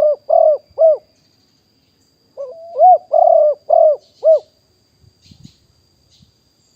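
Spotted dove cooing: the last notes of one phrase right at the start, then a full phrase of about five arching coos beginning about two and a half seconds in. A faint steady high-pitched tone runs underneath.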